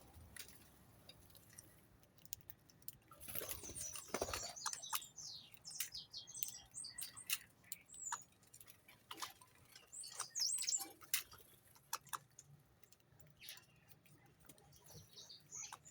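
Small birds chirping in short high bursts, with many scattered sharp clicks in between.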